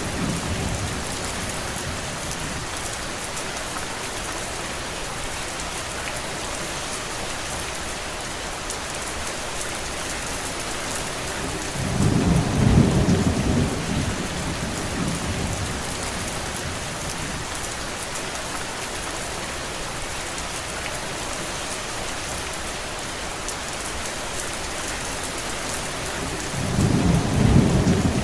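Steady heavy rain, an even hiss, with a low rumble swelling for about two seconds near the middle and again near the end.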